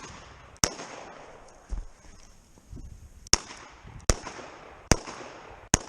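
Five handgun shots at uneven intervals, about 0.7 s in, then four more in quick succession from about 3.3 s. Each is a sharp crack with a short echoing tail.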